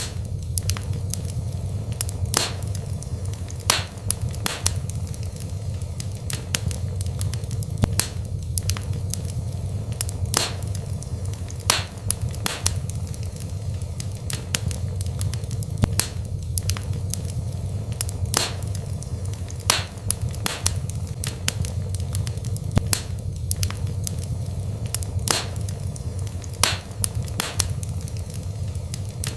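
Wood fire burning in a fireplace: irregular sharp crackles and pops, one or two a second, over a steady low rumble of the flames.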